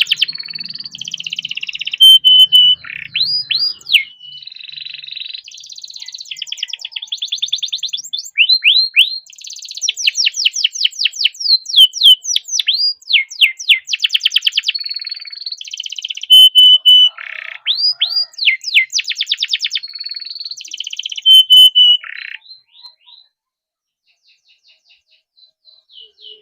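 Domestic canary singing a long, loud song of fast rolling trills, strings of rapidly repeated sweeping notes broken by short held whistles. The song stops about 22 seconds in, leaving only a few faint notes near the end.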